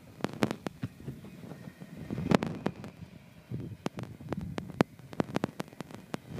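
Union Pacific intermodal freight train passing, its wheels clacking sharply and irregularly over rail joints above a low rumble.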